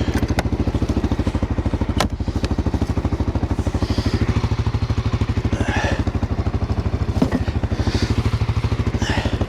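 ATV engine idling with a steady, even putter, with a few light clicks and short high chirps over it.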